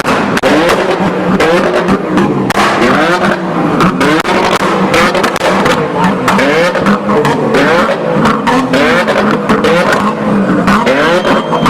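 Sports car engines revving up and down again and again, with sharp exhaust pops and crackles (backfires) going off throughout.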